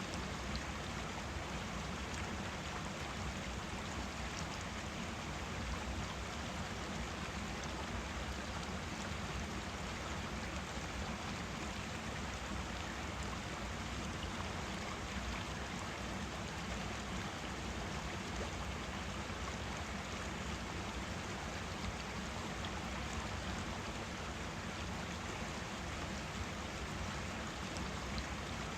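Forest stream flowing steadily: a continuous rush of running water.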